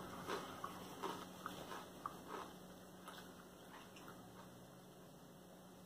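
Faint crunching of a corn chip with salsa being chewed: a quick run of short crunches, about three a second, that grows softer after the first couple of seconds.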